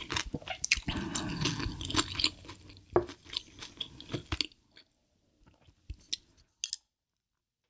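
Close-miked chewing of food, with dense crunching for the first four seconds or so. It then fades to a few faint clicks and stops.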